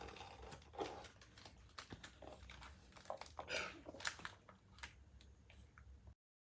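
Faint scattered clicks and light knocks, as of small hard objects being handled, over a low hum.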